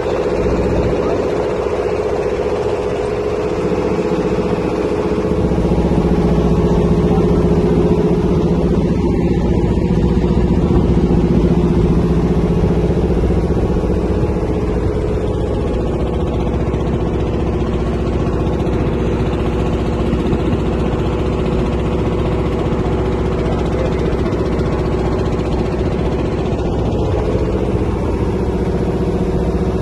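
Ferry boat's engine running steadily at a constant pitch, getting a little louder about five seconds in.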